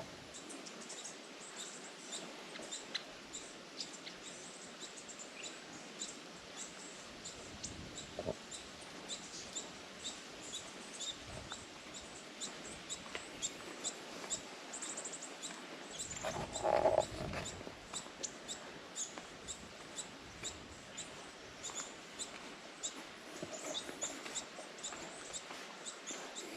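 Small birds chirping, with many short, high notes repeated throughout over a faint outdoor hiss. One louder, lower call stands out about two-thirds of the way in.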